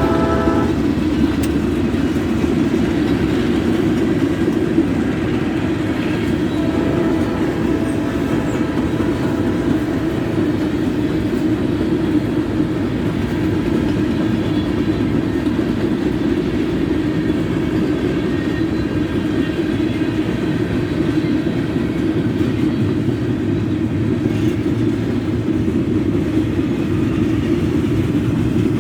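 Train rolling past at close range, its cars making a loud, steady rumble on the rails. A horn blast cuts off right at the start.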